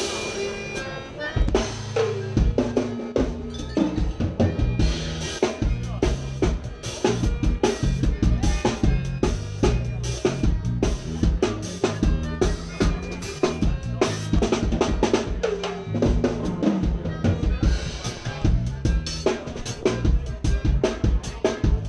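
Forró band playing, led by a drum kit with rapid kick and snare hits and rimshots over a moving bass line.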